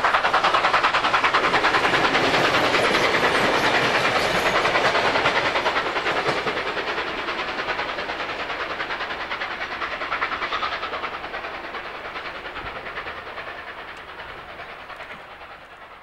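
Train of passenger carriages rolling past, wheels clattering rapidly over the rail joints. The clatter fades steadily as the train draws away round a curve, dying out near the end.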